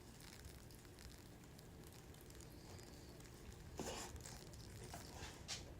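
Near silence: faint room tone, with two brief soft rustles, one about four seconds in and a shorter one near the end.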